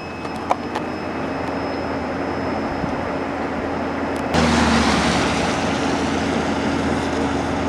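Steady rushing wind and vehicle noise with a low hum, jumping suddenly louder about four seconds in. A failing power inverter's high-pitched beep sounds faintly in the first half and stops at that jump.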